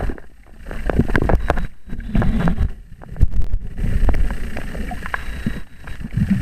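Muffled water noise of a snorkeler swimming: irregular splashing and bubbling that swells and fades in uneven surges, with scattered small clicks.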